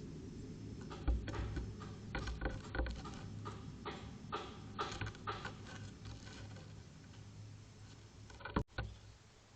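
Irregular light taps and clicks from animals moving and pecking on a bird feeder, several in quick runs, then a single louder knock near the end, over a steady low hum.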